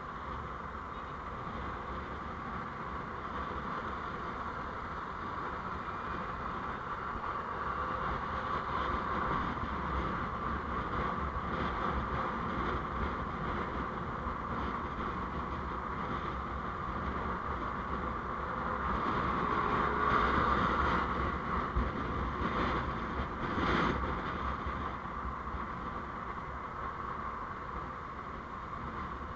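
Steady road noise of a moving vehicle recorded on board, a continuous hum and rush. It swells about two-thirds of the way through, with a brief louder sound shortly after.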